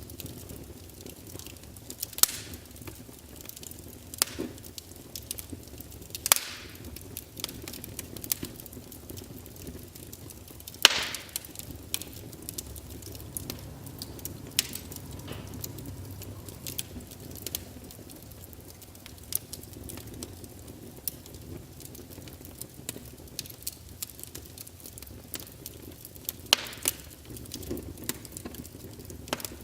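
Wood fire burning in a fireplace: irregular sharp crackles and pops over a steady low hiss, with a few louder snaps scattered through.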